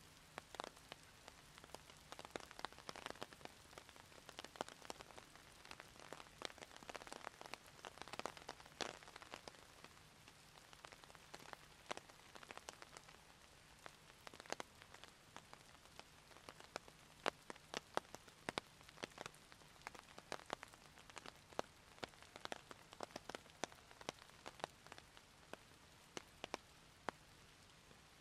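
Rain falling, heard as a faint steady hiss with many separate drops landing in irregular sharp ticks. The ticks are dense through the first half and thin out to scattered single drops later.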